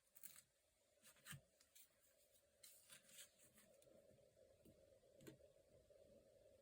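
Near silence: faint, scattered scratches and taps of paper and stationery being handled on a desk during journaling, over a faint steady hum.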